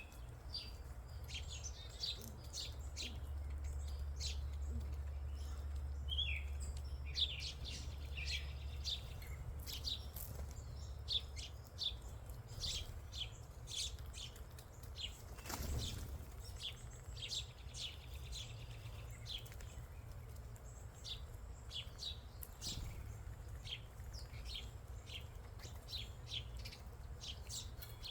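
Several small wild songbirds chirping in quick short notes throughout, over a low steady rumble, with one brief soft thump about halfway through.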